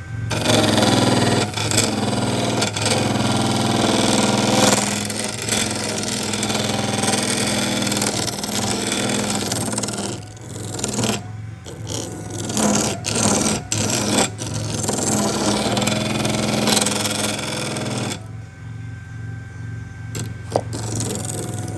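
A motor-driven power tool running continuously, with a steady hum under a loud, rough scraping noise that drops away briefly several times in the second half.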